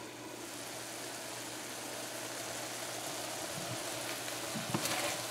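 Eggplant, eddo and shrimp sizzling in an uncovered pan, a steady hiss that grows slowly louder, with a few scrapes of a spatula turning the vegetables near the end.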